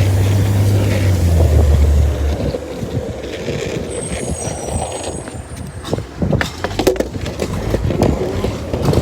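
Garbage truck engine running hard at raised revs, then dropping back about two seconds in. A brief high squeal follows, then a series of sharp knocks and clatter in the second half.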